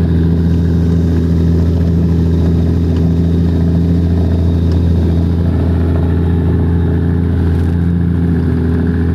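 An engine running steadily at constant speed, a low even drone that does not change.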